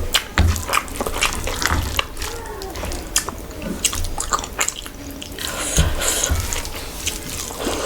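Close-miked wet eating sounds: food with curry gravy being chewed and squished, with many small wet clicks and smacks.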